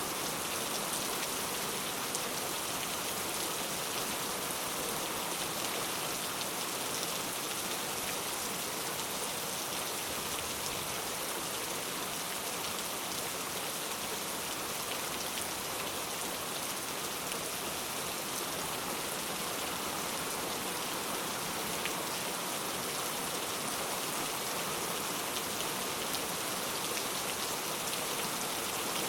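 Steady rain falling, a continuous even hiss of drops on a surface, with fine scattered patter and no thunder.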